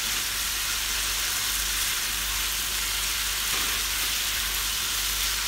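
Tempe strips in sweet soy sauce sizzling steadily in a nonstick frying pan, stirred with a wooden spatula.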